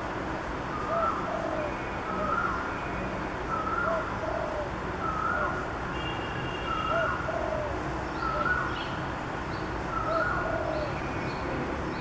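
A bird calling steadily, repeating the same short two-note call about every one and a half seconds, with a few fainter high chirps from another bird near the end.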